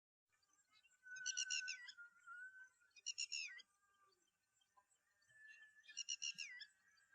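Bird-like chirping calls: a short rapid series of high notes ending in a falling note, repeated about three times with a fourth starting at the end, over a faint steady high tone.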